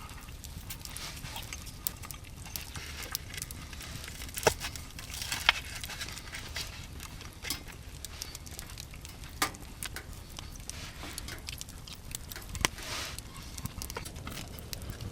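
Irregular small clicks and crackles over a faint steady low background, with a few sharper, louder clicks scattered through.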